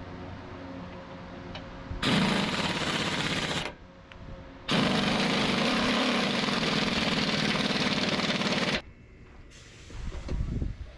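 A pneumatic hammering tool works on the truck chassis in two bursts of rapid hammering, a short one of under two seconds and then a longer one of about four seconds.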